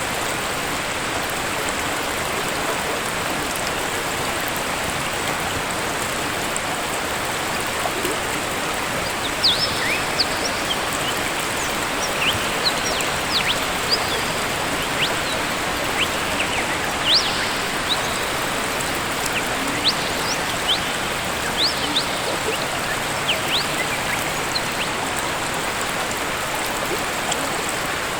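Steady rush of falling water from a waterfall, with a bird calling in short, sharp chirps, many of them, from about a third of the way in until shortly before the end.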